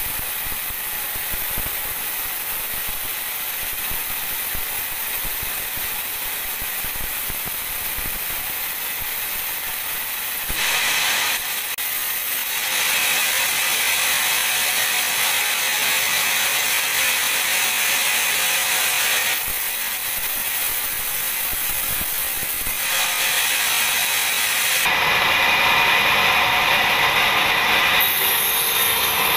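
Large band sawmill cutting through a teak log, a steady hissing, grinding noise that steps louder and brighter several times as the cut goes on, most strongly near the end.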